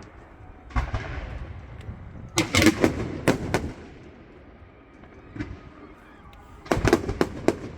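Fireworks going off: a deep boom about a second in, then a run of sharp bangs and crackles in the middle, and another cluster of bangs near the end.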